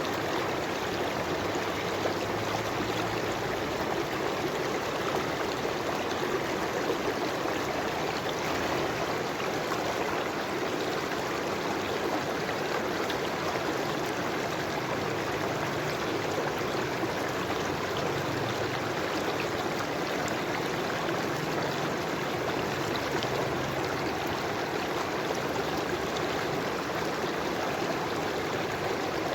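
River water flowing steadily over rocks, a continuous rushing and trickling with no pauses.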